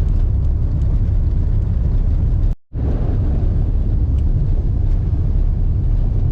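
Steady low rumble of a car's engine and road noise, heard from inside the moving car, broken by a brief total dropout a little over two and a half seconds in.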